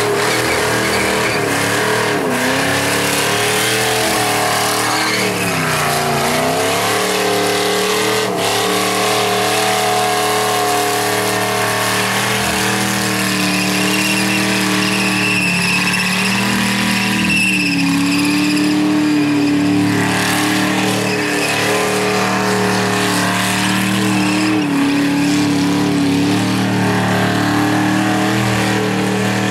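V8 engine of a Mazda truck held at high revs during a burnout, the pitch dipping briefly and climbing back a few times, with the rear tyres spinning against the tarmac.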